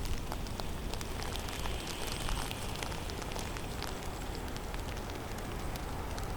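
Heavy snowstorm in a forest: a steady hiss with a low rumble, and many small, irregular ticks of falling snow striking surfaces.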